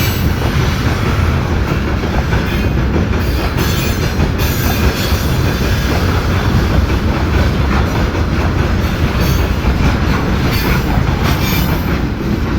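Freight train rolling past close by: a steady, loud rumble of wagons on the rails, with brief high wheel squeals now and then.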